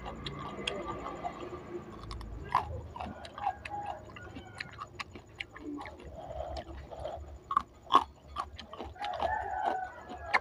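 Close-up biting and chewing of a raw yardlong bean: crisp crunches and wet mouth clicks, with a louder sharp bite about eight seconds in.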